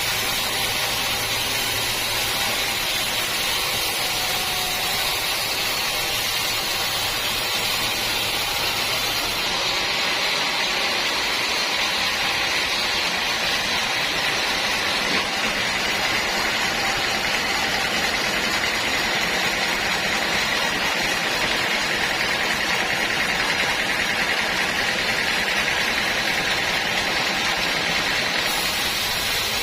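Sawmill saw machinery running steadily while sawing teak wood, a constant noisy whir strongest in the upper middle range. The tone shifts abruptly about ten seconds in.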